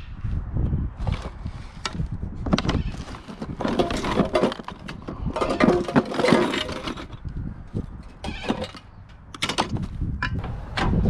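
Rummaging through a pile of discarded household items and e-waste: irregular clatters, knocks and scraping as things are moved and handled, with bursts of rustling in between.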